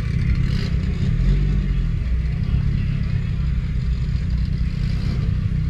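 Motor vehicle engine running at low speed as the vehicle creeps forward, a steady low rumble.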